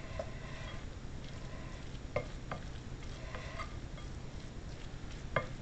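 Crouton stuffing being stirred and mixed in a bowl with a spoon, a steady rustling scrape with a few sharp knocks of the spoon against the bowl.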